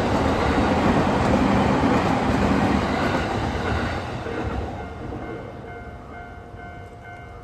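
Train passing over a level crossing, its running noise fading away after about four seconds. The crossing's warning bell rings about twice a second and is left ringing on its own once the train has gone.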